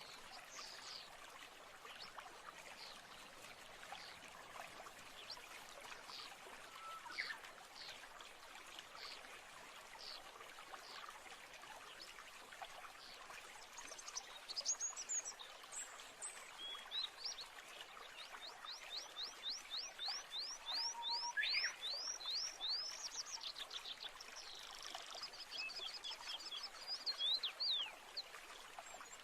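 Wild birds chirping and singing over the steady rush of a stream. About two-thirds of the way in, one bird gives a fast trill of repeated descending notes, and the chirping grows busier near the end.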